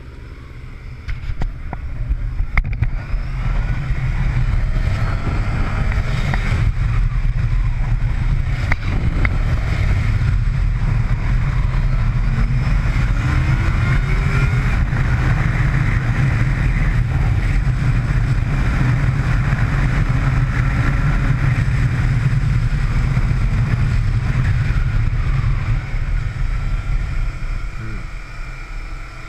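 Motorcycle pulling away and riding on track, heard from on board as a loud, steady low rumble with the revs rising and falling. It builds over the first few seconds and eases near the end.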